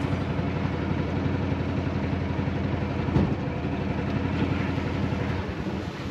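Small engine of a Mokai motorized kayak running steadily, a constant low engine note that eases off slightly near the end.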